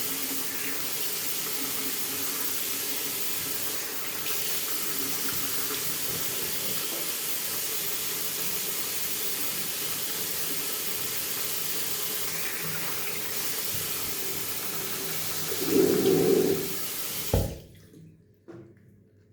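Bathroom sink tap running steadily while a face is washed under it, with a louder splash shortly before the end. The water then shuts off abruptly near the end.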